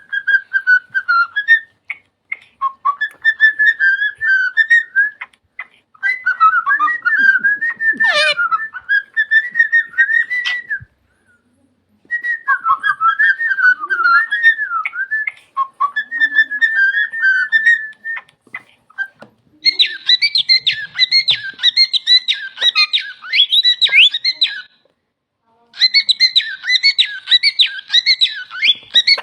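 A bird whistling in warbling phrases, broken by short pauses. About two-thirds of the way in it switches to fast, higher trills.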